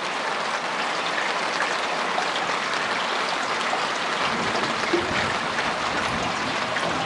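Steady rain falling, an even hiss of drops with small scattered ticks. A low rumble comes in about four seconds in.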